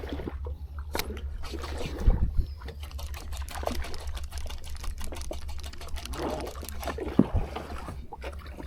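Sea water splashing and trickling beside a small fishing boat, over a steady low rumble, with a couple of louder knocks.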